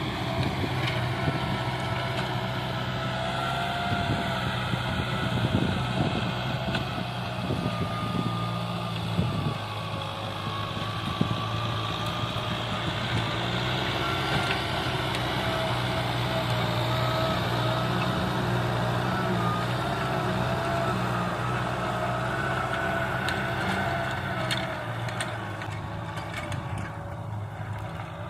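Tractor engine running steadily, with a deep engine note and a higher wavering whine over it; a few clicks near the end as the sound eases a little.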